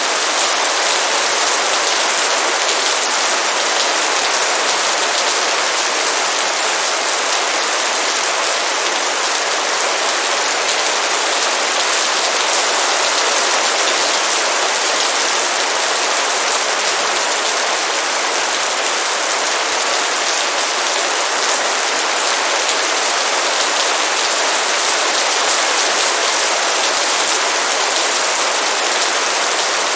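Heavy rain pouring down steadily, a dense hiss of drops hitting surfaces with no let-up.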